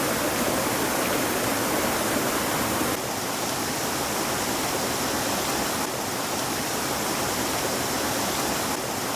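Stream water rushing steadily, a full, even hiss of flowing water. The level steps down slightly about three seconds in and shifts again near six seconds.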